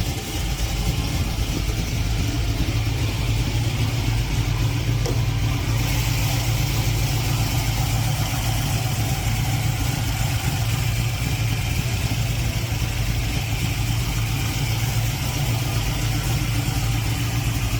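Mercury Comet's 351 Windsor V8, stroked to 357 cubic inches with Holley Sniper fuel injection, running steadily at idle.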